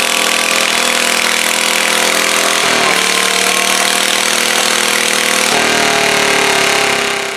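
A pulling garden tractor's engine running hard at high revs under load. Its pitch steps down twice, about three seconds in and again about halfway through, as the engine is pulled down by the load.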